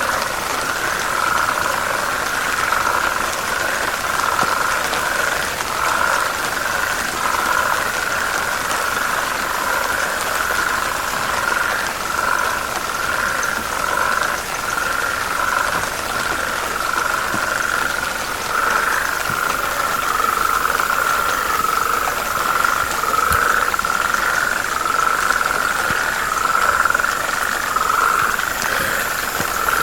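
A dense chorus of frogs calling together, a steady, mid-pitched, unbroken sound that swells and eases slightly.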